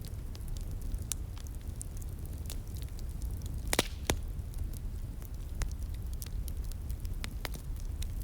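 Wood fire crackling, with irregular sharp pops and snaps, the loudest a close pair about four seconds in, over a steady low rumble.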